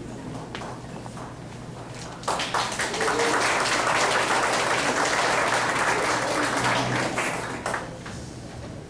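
Audience applauding, breaking out about two seconds in and dying away near the end.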